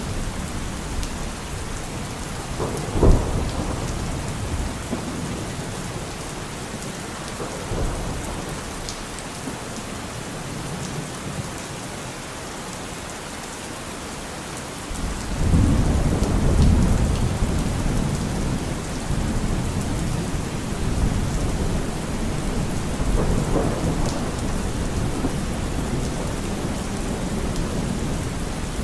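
Steady rain with thunder: a sharp clap about three seconds in, and a long low rumble that builds about halfway through and slowly fades.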